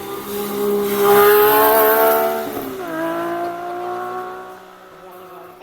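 Rally car engine revving hard, its pitch climbing and loudest between one and two seconds in, then falling sharply just before three seconds and pulling steadily upward again.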